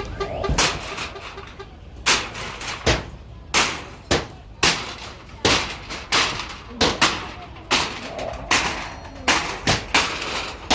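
Repeated sharp hammer blows, irregular at one or two a second, each with a short ring, as a shop is broken up by hand during demolition.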